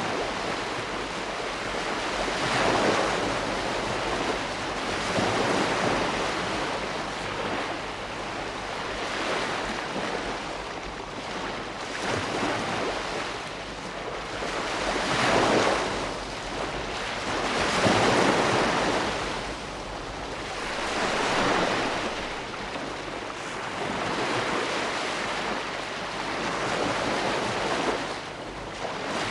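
Ocean waves breaking and washing on a shore, a continuous surf with swells that peak every few seconds.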